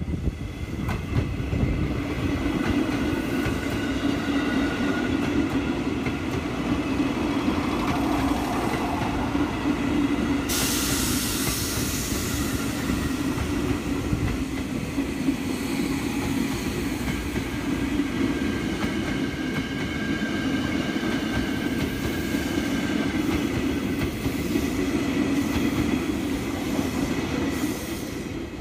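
A train passing close by on the track, running with a steady, continuous noise for the whole stretch. A sudden high hiss joins in about ten seconds in and fades over the next few seconds.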